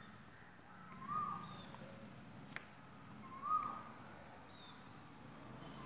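A bird calling: one short call about every two seconds, about a second in, a little past the middle and again at the very end. A single sharp click comes between the first two calls.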